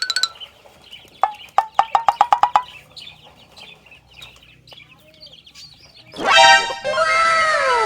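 Chicken clucking, a quick run of about eight sharp clucks a little over a second in, then soft chirping. Near the end a loud electronic sound effect sweeps up and then falls away in repeated falling tones.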